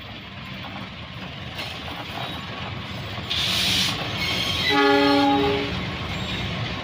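Diesel-hauled fuel tank wagon train passing close by, its wheels rumbling steadily over the rails. Just past the middle there is a brief hiss, and soon after the locomotive's multi-tone horn sounds once, a chord held for about a second.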